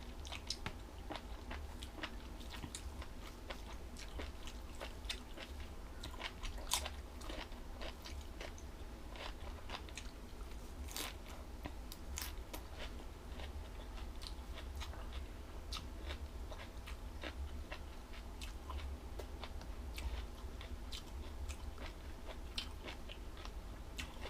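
Close-miked chewing of crunchy jellyfish salad: a steady run of crisp, irregular crunches and mouth clicks.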